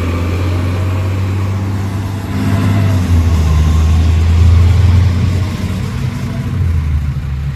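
Garbage truck's diesel engine running, getting louder about two and a half seconds in and easing off again near the end.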